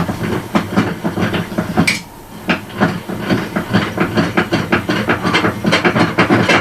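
Homemade drum sander, driven by a tile cutter motor, running with a steady low hum, with dense irregular clattering and knocking over it and a short lull about two seconds in.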